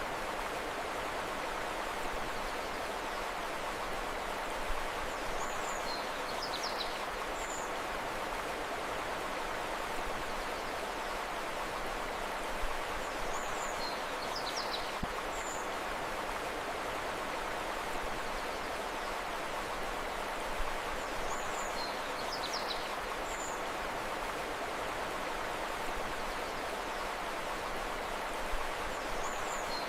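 Steady rushing of a flowing river. A short high bird chirp phrase recurs about every eight seconds.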